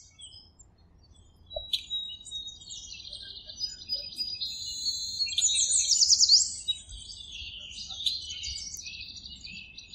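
Skylark singing: a long unbroken stream of high, rapid warbling and trilling notes that starts about a second and a half in.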